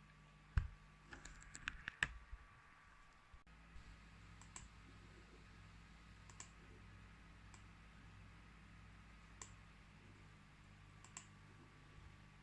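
Near silence with a low steady hum. There is a sharp click about half a second in, a few more clicks between one and two seconds in, then occasional faint ticks.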